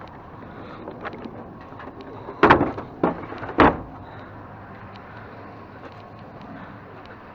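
Two loud knocks about a second apart, with lighter clicks and handling noise around them.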